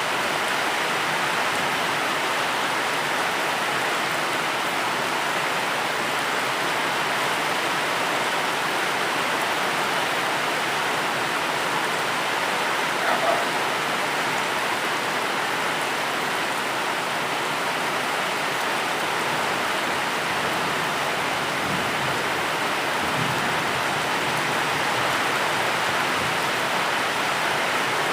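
Steady, dense rainfall making an even hiss, with one brief louder sound about halfway through.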